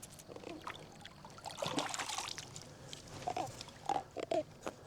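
A freshly landed blue catfish being handled and unhooked: scattered wet splashes and drips, with a few short grunting squeaks in the second half.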